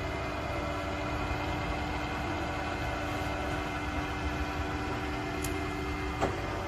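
Vertical milling machine running with a steady electric hum; a steady whine comes in about half a second in and stops with a sharp click near the end.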